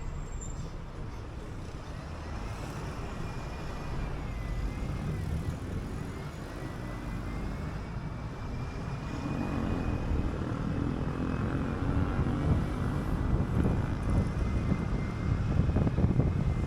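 City bus in motion: a steady engine drone and road rumble, with a faint thin whine that wavers in pitch. The rumble grows louder over the last few seconds.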